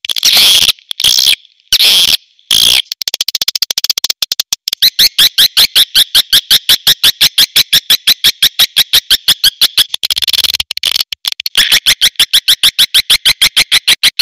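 Swiftlet calls played as a lure track: a rapid, dry chattering of high clicks, about nine a second, broken by short buzzy twitters in the first few seconds and again about ten seconds in.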